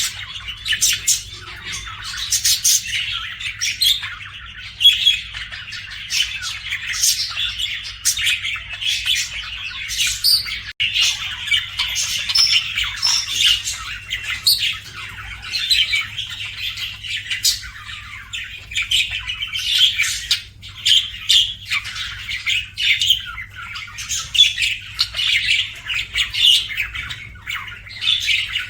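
Budgerigars chirping and chattering without pause: a dense stream of short, high chirps and squawks, over a faint steady low hum.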